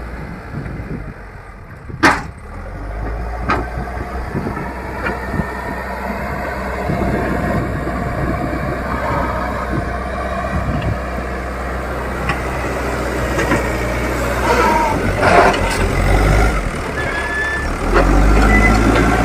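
Leyland Deere 435 backhoe loader's diesel engine running and working, growing louder after a sharp knock about two seconds in, with a few lighter knocks later.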